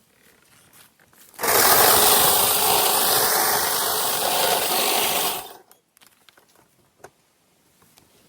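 Small power saw running at full speed for about four seconds, cutting into a tree limb; it starts suddenly a little over a second in and cuts off suddenly.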